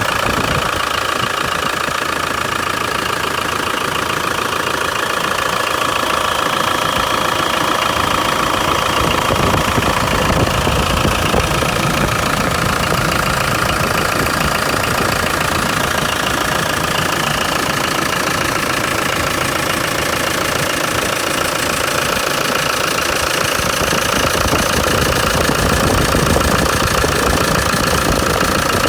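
Land Rover 300Tdi 2.5-litre four-cylinder turbodiesel engine, brand new, running steadily at idle.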